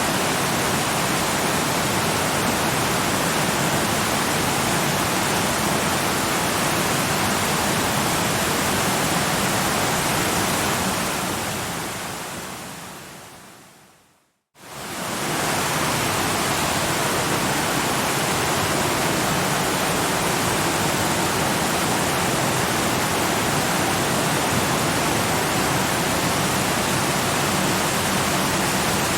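Waterfall, a steady rushing of falling water. Around the middle it fades out over a few seconds to a moment of silence, then comes back up quickly to the same steady rush.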